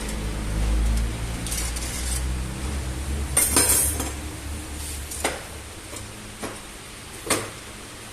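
Metal clinks and knocks from tools and parts being handled: the hacksaw and its blade taken out of a motorcycle swingarm bushing. There are a few separate clicks, the loudest a short burst of clinking about three and a half seconds in.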